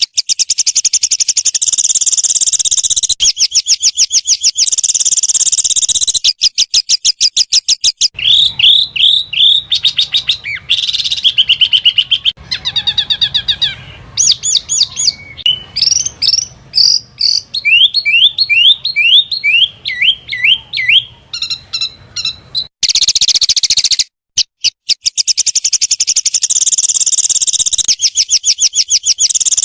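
Recorded calls of small songbirds: rapid, high-pitched 'tembakan' bursts, fast trills and strings of quick rising notes. The song changes abruptly from one stretch to the next, and the opening stretch of trills comes back near the end.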